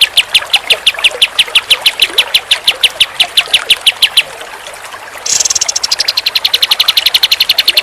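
Pied triller (kapas tembak) song: a fast, very even series of sharp chirps, about seven a second. It breaks off about four seconds in, and after a second's lull it starts again brighter and slightly faster.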